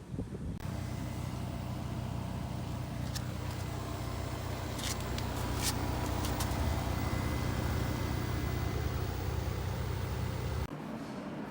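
A steady machine hum, a motor running, with a few light clicks in the middle. It stops abruptly about a second before the end, leaving a quieter steady fan-like hum.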